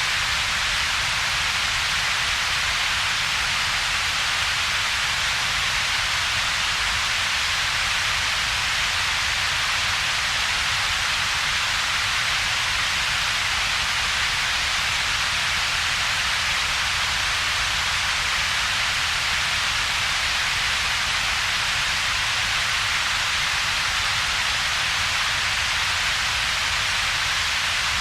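Steady synthetic double-peaked noise: an even hiss concentrated around the upper-middle range, with a second, weaker band of low rumble and a gap between them. It holds steady without change.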